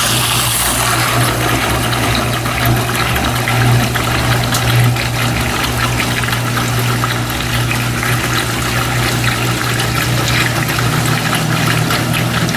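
Brastemp BWT12 top-loading washer spraying water into its tub to rinse the bottom, a steady rush and splash of water over a constant low hum from the machine.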